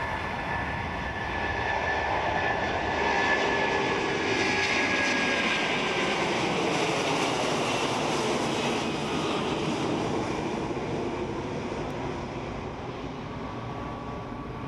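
Airbus A330-300's Rolls-Royce Trent 700 jet engines passing by. A rushing engine noise with a faint whine that falls slightly in pitch grows to its loudest a few seconds in, then slowly fades as the airliner moves away.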